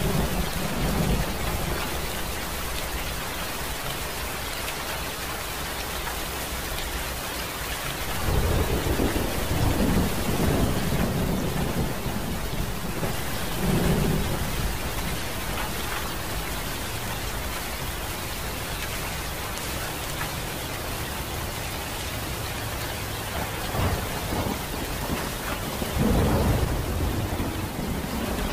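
Steady rain with rolling thunder. Several low rumbles swell and fade: one at the start, a long one about a third of the way in, a short one around the middle, and another near the end.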